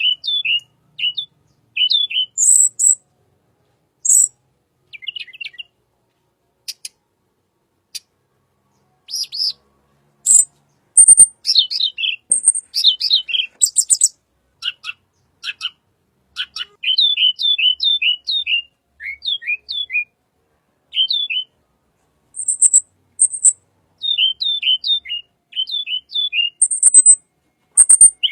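Song of a tledekan bird: runs of short, quick, down-slurred chirps alternating with very high, thin notes, in phrases separated by brief pauses.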